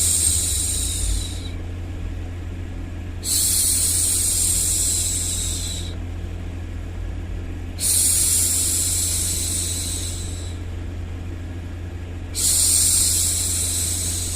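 A woman shushing, a long drawn-out "shhh" about every four and a half seconds, each lasting a couple of seconds, over a steady low white-noise hum. One shush is already under way at the start and fades out, and three more follow.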